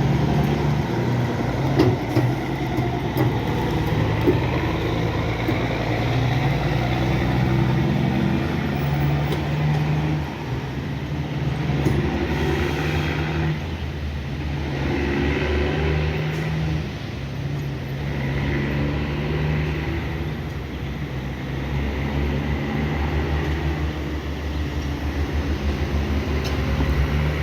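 Heavy truck's diesel engine running, a continuous low drone that shifts in pitch several times as the truck works.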